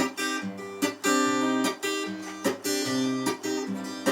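Acoustic guitar strummed in a steady rhythm, a new chord struck roughly every second and ringing on between strokes, as the instrumental lead-in to a sung song.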